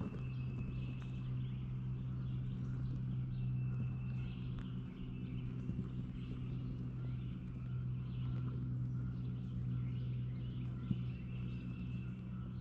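Outdoor ambience: songbirds calling now and then over a steady low hum.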